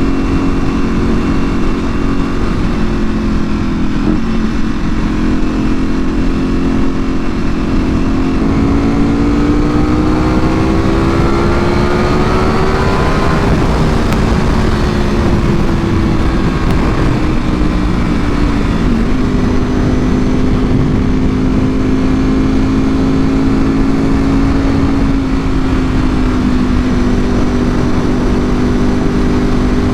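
Ducati Panigale V4R's V4 engine through an Akrapovič full exhaust, heard from the moving bike. It holds steady revs, winds up in a pull through the middle, eases off with falling pitch, then settles into a steady cruise again, over a heavy low wind rumble.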